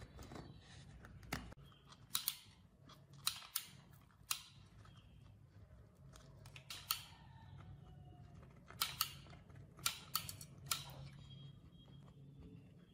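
About a dozen sharp clicks and snaps of hand work at irregular intervals, some in quick pairs, over a faint steady low hum.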